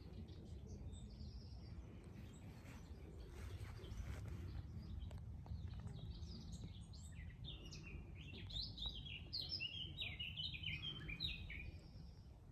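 A songbird singing a quick, jumbled run of high chirping notes from about halfway through, over a steady low background rumble. A few scattered chirps come before it.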